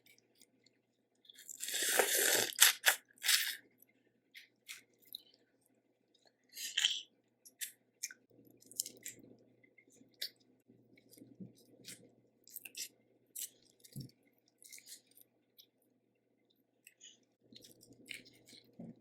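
Close-up eating of a seafood boil: shells cracking and being picked apart, with chewing and scattered sharp clicks. The loudest part is a noisy burst of crunching about a second and a half in.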